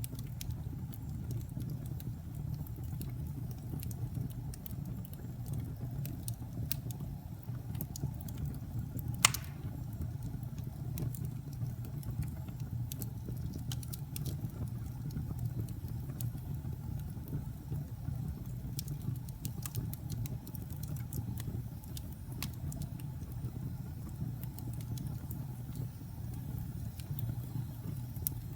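Wood fire burning in a fireplace: a steady low rumble with scattered small crackles and one louder pop about nine seconds in.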